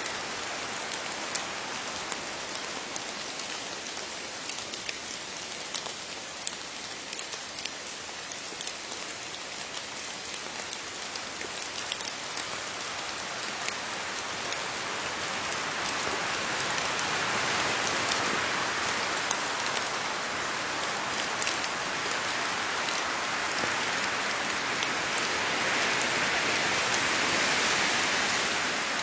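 Steady rain pattering on leaves, a dense hiss of fine drop ticks, growing heavier about halfway through and again near the end.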